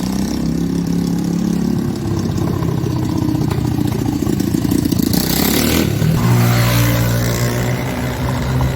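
Motorcycle engine with a modified exhaust running loudly, its pitch shifting as the revs change a couple of times, loudest about six seconds in.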